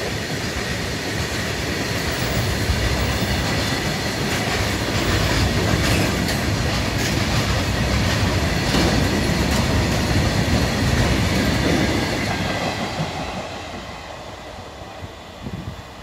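Loaded freight train of covered goods wagons rolling past close by, the steel wheels clattering over the rail joints with occasional knocks. About twelve seconds in, the last wagons pass and the sound falls away as the train recedes.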